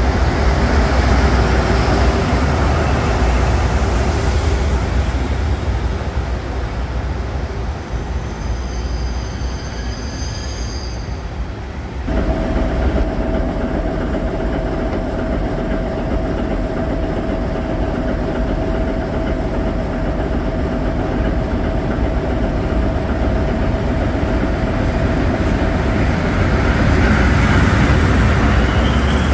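Diesel freight locomotives running through a station. First a diesel locomotive hauls a freight train along the platform, with brief high squeals about ten seconds in; then, after an abrupt change, a steady engine tone runs until near the end, when a locomotive and its freight wagons pass close by and the sound grows louder.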